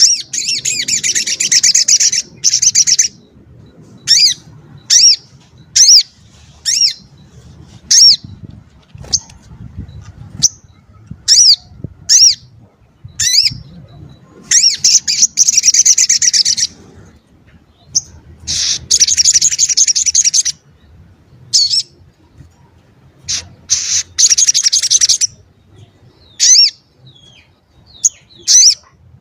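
A sogok ontong (spiderhunter) singing: bursts of fast, high, trilled chattering lasting one to two seconds each, alternating with single sharp chirps about a second apart.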